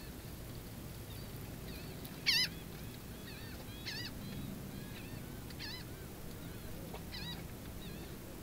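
Birds calling: a string of short, high calls that bend up and down in pitch, one every second or two. The loudest comes about two seconds in.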